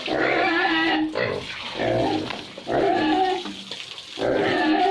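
Piglets squealing and grunting in repeated calls with short breaks between them. They are squealing because they are hungry.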